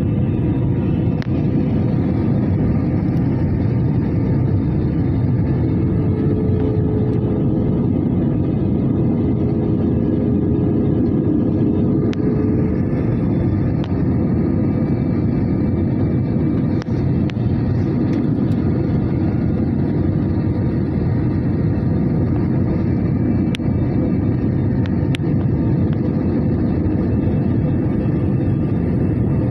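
Airliner cabin noise in flight: a steady low rumble of engines and airflow, with a few faint clicks.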